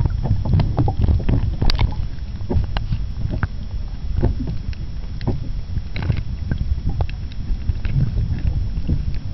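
Sea water lapping and slapping against a pontoon in many short splashes, over a steady low rumble of wind on the microphone.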